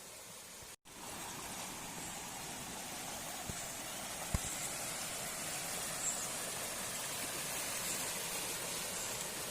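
Steady rush of flowing water from a river or stream. It cuts out for a moment under a second in and comes back a little louder, with two soft low knocks near the middle.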